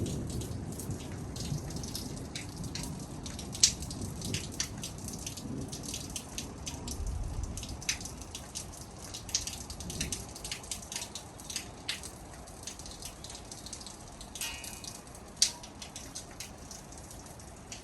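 Rain during a thunderstorm, with many sharp drips of raindrops hitting a nearby surface, several a second. A low thunder rumble dies away in the first couple of seconds.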